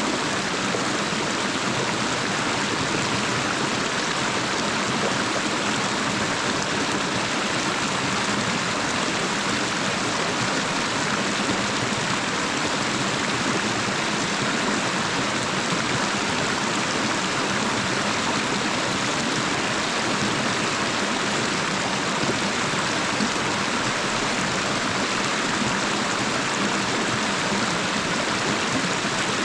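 Steady rush of flowing river water, an even hiss with no breaks or separate splashes.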